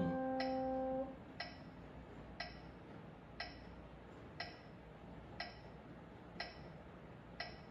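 Metronome ticking steadily at about one tick a second (60 beats a minute). A held piano note from the previous phrase ends about a second in.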